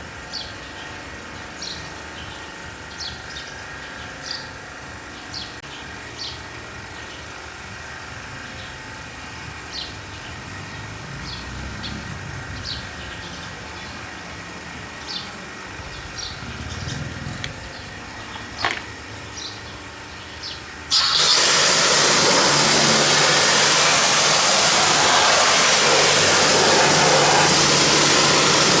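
Birds chirping over a faint low hum. About two-thirds of the way through, a pressure washer suddenly starts spraying: a loud, steady hiss of the water jet with a steady hum beneath it.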